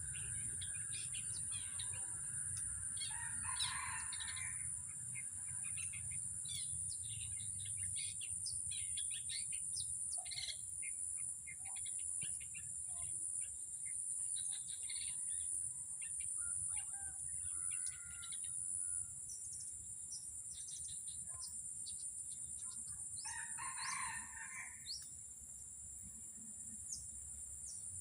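Small birds chirping and twittering, with a rooster crowing twice: about four seconds in and again near the end. A steady high-pitched drone runs underneath.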